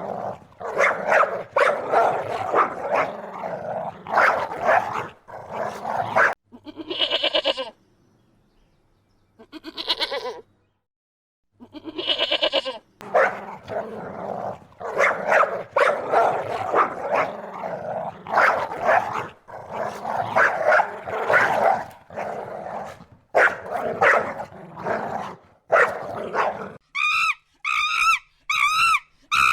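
A run of farm and pet animal calls, with dog barks among them. Near the end comes a series of evenly spaced high chirps.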